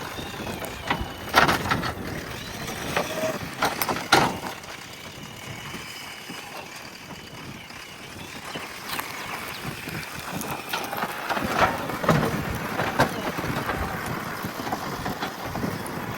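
JCB backhoe loader working, a steady machine noise broken several times by sharp cracks and knocks.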